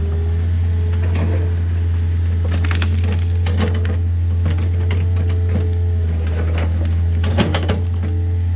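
Compact excavator's diesel engine running steadily with a low drone, while scattered cracks and clatters of dirt and rock come from the bucket backfilling a trench. The clatter is busiest around three seconds in and again near the end.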